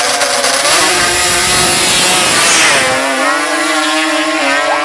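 Drag-racing ATV engines at high revs: a loud, rough noise for about the first three seconds, then steady engine tones holding their pitch.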